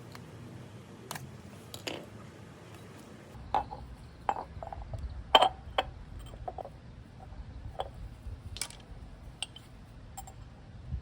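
Scattered light clinks and knocks of hand tools and small metal parts being handled and set down, irregular and unhurried, with the sharpest knock about halfway through.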